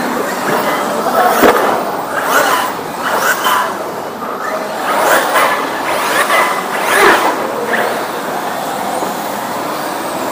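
Electric RC monster trucks racing on a hard court: motor whine and tyre noise swelling and fading several times as the trucks pass.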